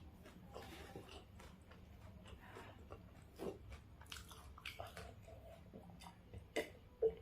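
A person chewing and biting a mouthful of fried chicken, close to the microphone, with many short mouth clicks and two sharper ones near the end.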